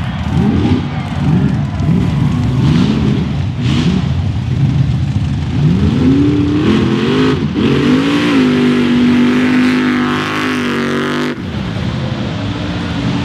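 Off-road mud truck engine revving up and down in quick repeated pulses, then climbing and held at high revs for a few seconds. The sound cuts off abruptly near the end into another engine running steadily.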